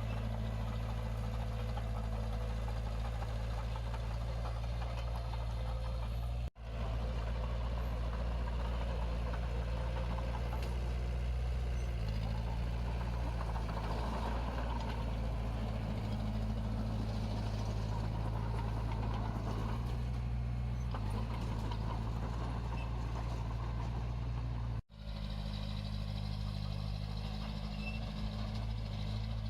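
Heavy-equipment diesel engine running steadily, its pitch shifting a few times as the load changes. The sound cuts out for an instant twice.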